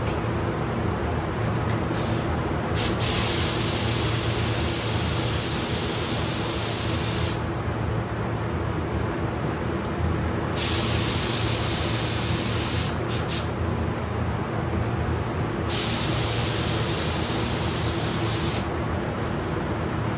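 Air spray gun spraying clear coat in three long hissing passes of about two to four seconds each, with a few short trigger bursts before the first pass and between the second and third. The passes lie over a steady background drone.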